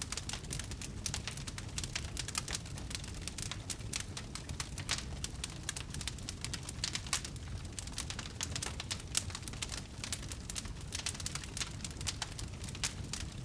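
Wood fire burning in a fireplace: a constant low rumble with dense, irregular crackles and pops.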